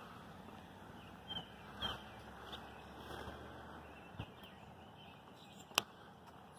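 Quiet outdoor ambience with faint, scattered bird chirps. A couple of soft thuds come about a second and a half in, and a single sharp click near the end.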